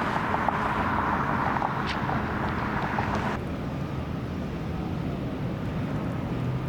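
Outdoor vehicle noise: a steady hiss and rumble. In the first half there is a brighter band with fast faint ticking, which cuts off abruptly about three and a half seconds in, leaving a lower rumble.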